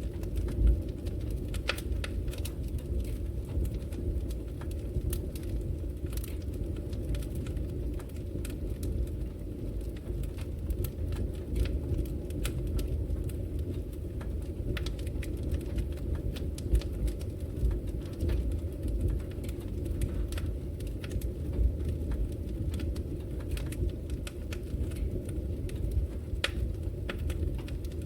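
Wood logs burning in a fireplace: a steady low rumble of the fire with frequent scattered sharp crackles and pops.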